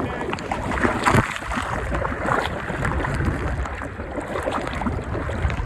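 Steady rushing noise of a boat on the sea, with wind on the microphone and water, and faint voices in the background.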